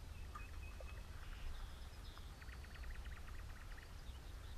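Small birds calling: a few short whistled notes, then a fast trill of about ten notes a second in the middle, over a steady low rumble.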